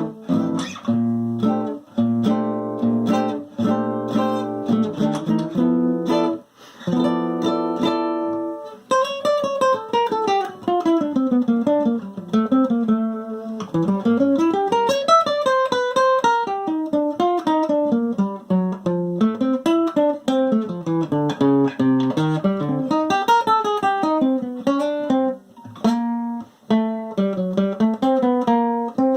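Acoustic guitar strummed in steady chords. About nine seconds in, a melody line that glides up and down joins over the strumming.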